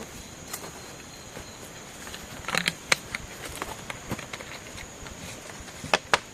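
A steady high insect drone under a dozen scattered sharp clicks and knocks, the loudest cluster about two and a half seconds in and another pair near the end.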